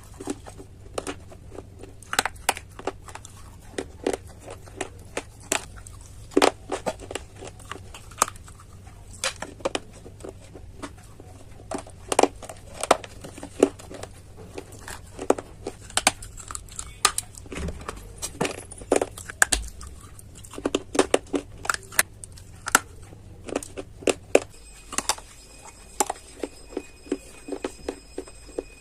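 Close-up crunching of dry clay being bitten and chewed: a run of sharp, irregular cracks and snaps, some in quick clusters.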